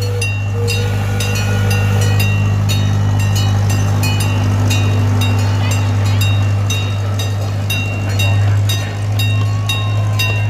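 Zoo train's bell ringing steadily, about two strikes a second, over the low steady hum of the train running.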